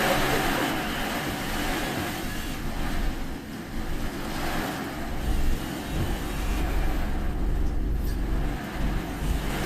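A car driving through typhoon rain and standing water, heard from inside. There is a steady rumble of engine and tyres under a hiss of rain and water, and the low rumble grows heavier about six seconds in.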